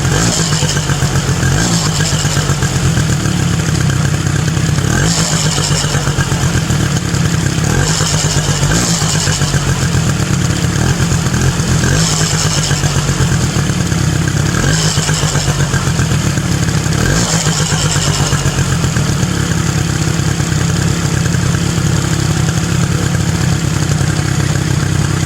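Polaris four-wheeler (ATV) engine running steadily after a cold start. Short bursts of higher noise come every few seconds, about seven times.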